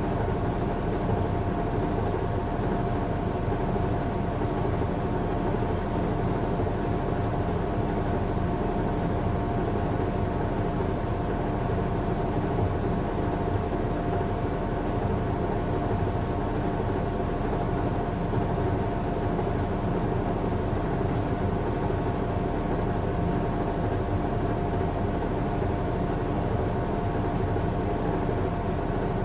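Washing machine running on a strong cycle: a steady, unbroken low rumble with a constant motor hum.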